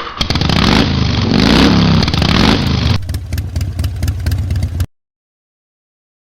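Motorcycle engine revving, its pitch rising and falling, then cutting off suddenly about five seconds in.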